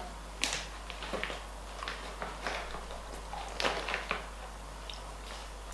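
A person biting into and chewing a piece of dried peach, with mouth closed: short, irregular chewing clicks and smacks.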